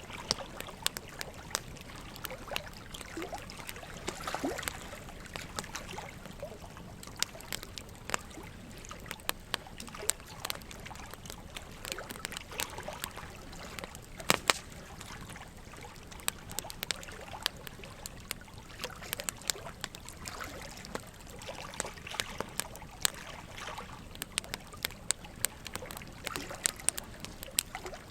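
Wood logs burning and crackling, with frequent irregular sharp pops, the loudest about fourteen seconds in, over a steady trickle of running water.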